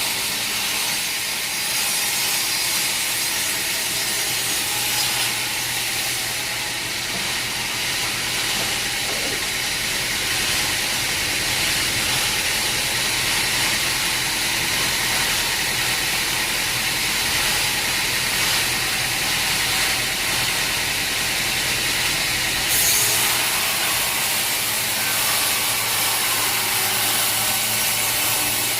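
Sawmill saw running through a log, a steady hissing noise over a low hum. The hum drops away and the sound changes about 23 seconds in.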